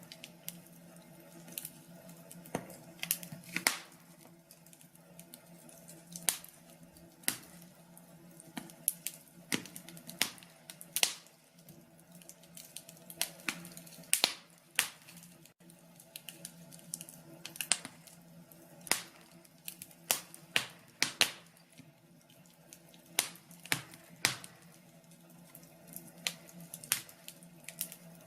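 Wood fire crackling in a fireplace: irregular sharp pops and snaps over a steady low background.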